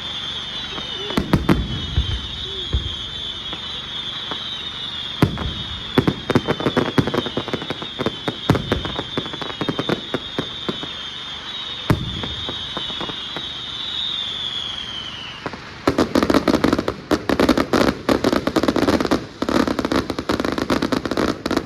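Aerial fireworks display: scattered bangs and booms over a steady high-pitched hiss, then, about three-quarters of the way in, a dense rapid barrage of cracks and bangs, the display's finale.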